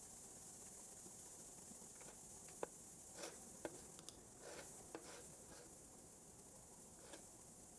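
Faint, scattered clicks of computer keys and a mouse: about ten irregular clicks starting about two seconds in, the sharpest near the start of the run, then a lone click near the end. A steady high hiss lies under them.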